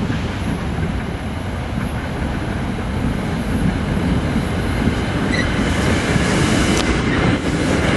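Commuter train running past on the rails: a steady rumble of wheels and cars that grows somewhat louder toward the end.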